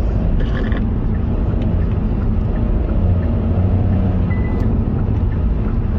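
In-cabin sound of a Hyundai Casper's 1.0-litre turbocharged three-cylinder engine and road noise as the small car is driven hard through a sharp corner: a steady low drone.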